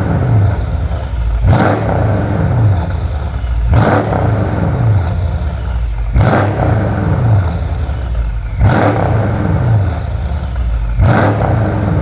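Mercedes CLS63 AMG V8 through an aftermarket Shout cat-back exhaust, revved in short blips about every two and a half seconds, each blip sharp at the start and then falling back toward idle; five revs in all.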